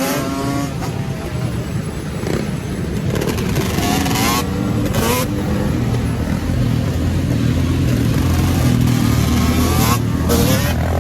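Motorcycle engines running and revving, the rev pitch rising and falling. The engines grow louder over the second half.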